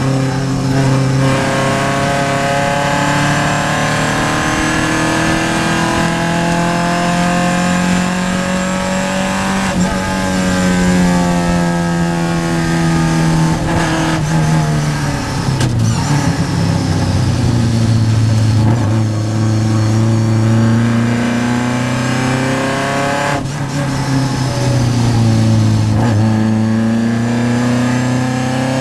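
Triumph race car's engine heard from inside the car under hard driving, its pitch climbing and then dropping back as it shifts and lifts, with sharp breaks about ten, sixteen and twenty-three seconds in.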